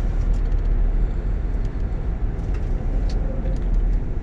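Car in motion, heard from inside the cabin: a steady low rumble of road and engine noise with a few faint clicks.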